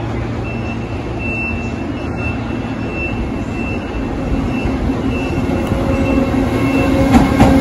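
JR Freight EF210 electric locomotive hauling a container freight train as it approaches, its rumble growing steadily louder, with a steady hum coming up near the end.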